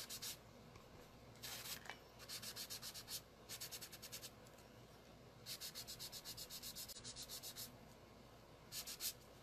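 Sponge dabbing ink onto cardstock in quick rhythmic pats, several short runs of about eight pats a second with brief pauses between them, laying down shadow under stamped trees.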